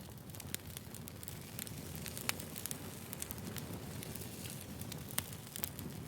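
Wood fire burning, crackling steadily with scattered sharp pops from the burning logs; two pops stand out, a little over two seconds in and again about five seconds in.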